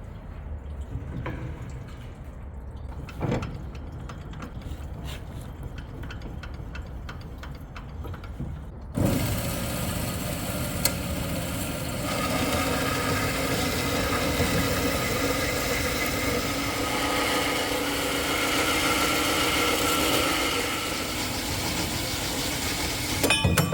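A power saw cutting steel square hollow section: a few knocks over a low hum, then about nine seconds in the saw starts suddenly and cuts steadily with a high, ringing whine, ending in a short clatter of metal near the end.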